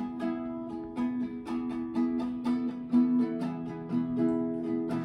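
Plucked acoustic strings, guitar or ukulele, picking a steady pattern of notes: an instrumental stretch of a song.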